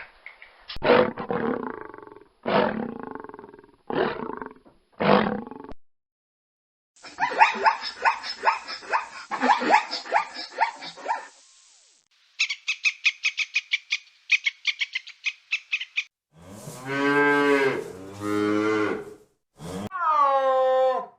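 A run of different animal calls, one clip after another: several short calls, a fast chattering, a rhythmic trill, then two long pitched calls and a falling call near the end.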